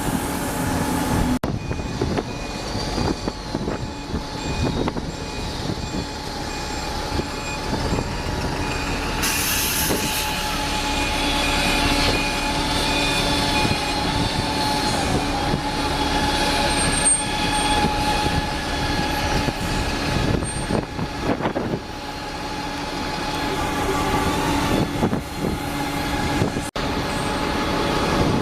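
A train running, with a steady rumble and thin sustained high tones above it. The sound cuts off abruptly about a second in and again near the end, and something different starts each time.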